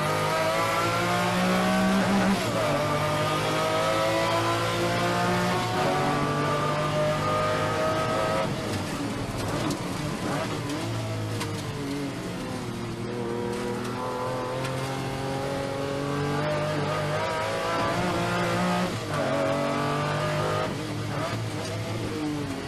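Car engine accelerating hard, its pitch climbing slowly and then dropping back several times over.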